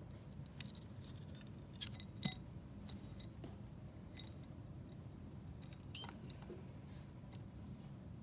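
Scattered small clicks and taps from the segments of a sectioned stick being handled and fitted together, with one sharper click about two seconds in, over a steady low hum.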